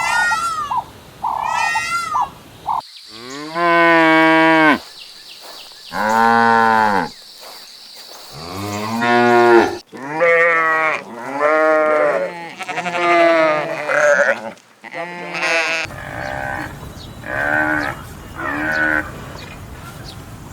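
Farm animal calls: a few short high bleats in the first three seconds, then cattle mooing, a series of long low moos each lasting one and a half to two seconds, followed by quicker, shorter calls.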